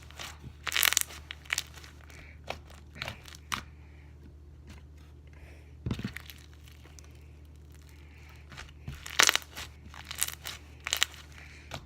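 Hands squishing and stretching foam-bead slime, giving clusters of short crackling, popping clicks. A single dull thump comes about six seconds in, and a steady low hum runs underneath.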